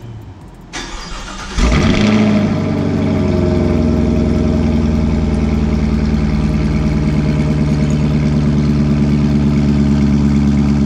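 Cold start of a 2021 Chevrolet Camaro SS's 6.2-litre LT1 V8 with cat-deleted exhaust: the starter cranks briefly, the engine catches loudly about a second and a half in, then settles into a steady idle.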